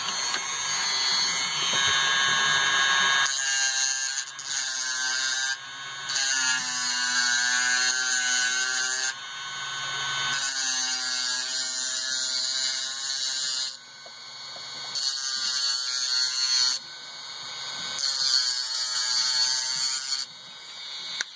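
Small electric grinding tool whining in about six bursts of a few seconds each as it grinds off the rivet that holds an old Holley mechanical fuel pump together.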